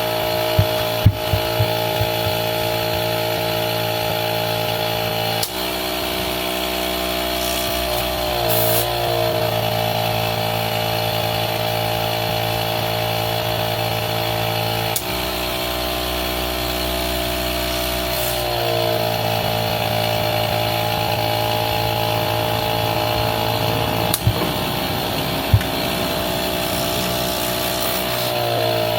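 Air compressor motor running steadily, its pitch dipping and recovering a few times as the load changes, with a few light clicks near the start and a sharp click near the end.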